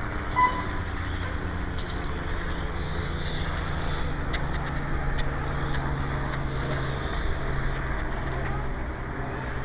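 Steady low motor hum with a few faint ticks, and a short electronic beep about half a second in.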